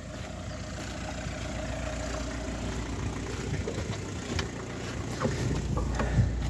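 Car engine idling steadily, growing slowly louder as it is approached, with a few light knocks and clicks as someone gets into the driver's seat.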